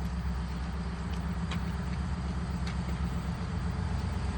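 Steady low engine hum, like a motor vehicle idling, with a few faint clicks.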